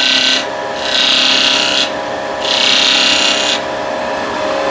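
Light cuts with a turning tool on spinning wood on a Vicmarc VL300 lathe: three short passes of hissing cutting noise over the lathe's steady running hum.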